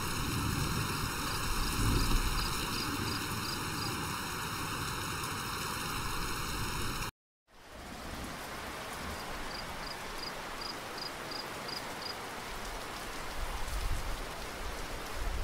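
Heavy rain falling steadily, broken by a sudden half-second gap of silence about halfway through. A quick run of high chirps is heard twice over the rain, once early and once after the gap.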